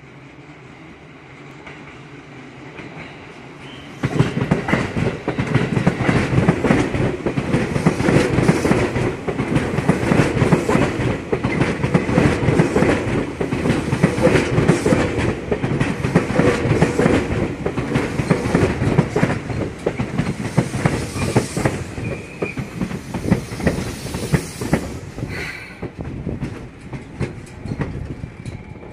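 Seibu Railway yellow electric commuter train passing close by: faint as it approaches, then about four seconds in a sudden loud, dense clatter of wheels over rail joints and points that runs on, thinning near the end as the last car goes past.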